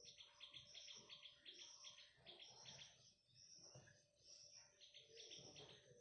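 Faint bird calls: three quick runs of short, high chips, about eight to ten a second, over a faint high insect hum.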